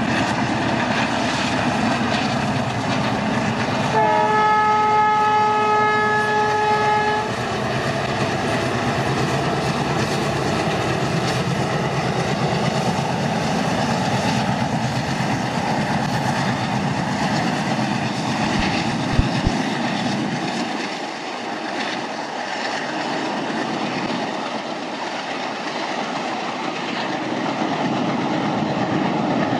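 Diesel-hauled train passing, its wheels running steadily on the rails, with one long locomotive horn blast of about three seconds starting some four seconds in.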